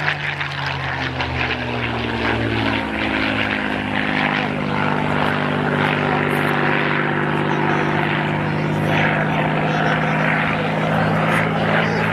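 Supermarine Spitfire PR Mk XI's Rolls-Royce Merlin V12 engine droning in flight. Its pitch drops over the first few seconds, then holds steady.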